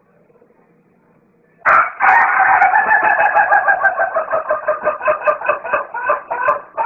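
Chicken calling loudly, starting a little under two seconds in: a long pitched call that breaks into rapid clucks, about four a second, toward the end.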